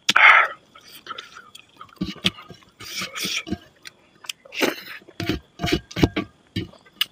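A person eating rice and chicken curry by hand: wet, open-mouthed chewing and lip smacking in quick, irregular clicks, with a louder burst right at the start.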